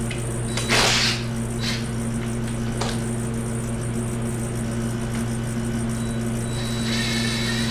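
A steady electrical hum runs throughout, with a few short scraping and clattering handling noises. The loudest comes about a second in and another, longer one near the end; these are typical of parts and tools being handled during an engine teardown.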